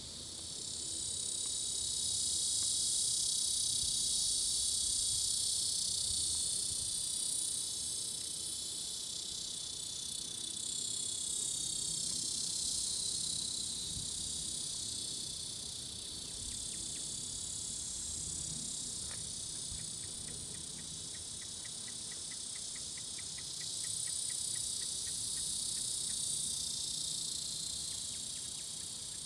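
Cicadas shrilling: a continuous high-pitched drone that swells louder a couple of seconds in, eases, and swells again near the end.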